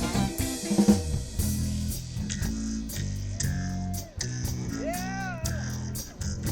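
Live band playing an instrumental passage: electric guitar, bass guitar and drum kit keep a steady beat. About five seconds in, one note slides up and back down.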